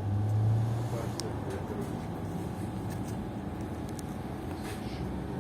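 PKTS-6281.01 'Admiral' trolleybus on the move, heard from inside: a steady low hum with a thin constant whine above it, the hum louder for about the first second, and a few light clicks.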